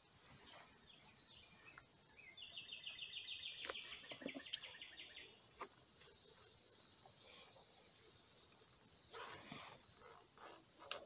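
Faint trilling of insects: a rapid pulsed trill starts about two seconds in and lasts about three seconds, then a higher, fainter trill runs for about three seconds. A few soft clicks come in between.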